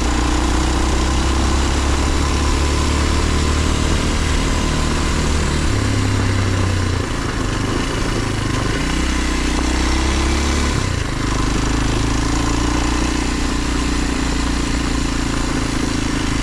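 Kawasaki KLX230 dual-sport motorcycle's single-cylinder four-stroke engine running while being ridden, heard from the rider's position with a steady rush of wind noise. The engine note changes in steps a few times, with short dips in loudness about 7 and 11 seconds in.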